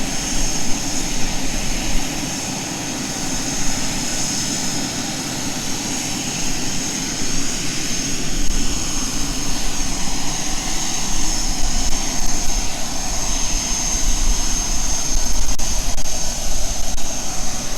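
Engines of a large aircraft running steadily, a dense rumble with a steady high whine over it.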